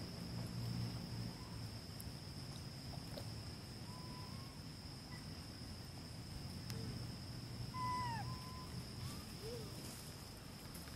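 Quiet ambience: a steady high-pitched insect drone, with a few faint short gliding calls about four and eight seconds in.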